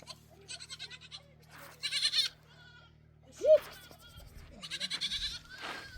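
Goats bleating: several quavering calls, the clearest about two seconds in and again near the end, with a short, sharp, louder call about three and a half seconds in.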